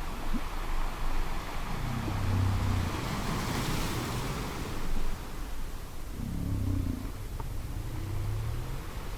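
Sea surf washing steadily, with low, drawn-out whale calls rising out of it twice, about two seconds in and again about six seconds in.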